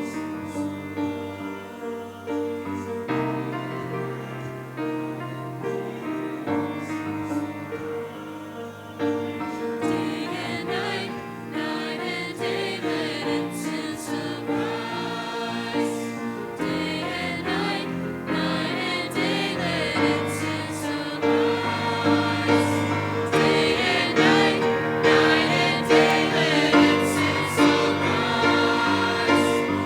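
Choir singing a gospel song over sustained accompaniment, growing louder toward the end.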